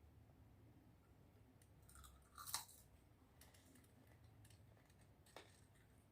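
Faint chewing and crunching of crispy deep-fried seafood, with sharper crunches about two and a half seconds in and again near five and a half seconds.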